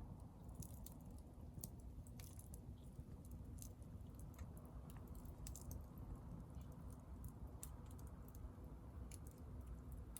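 Hardwood burning in a Picogrill fire pit, crackling with faint, irregular snaps and pops over a low steady rumble.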